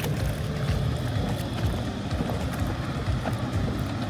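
Steady engine rumble and rushing wind and water of a speed boat running at speed.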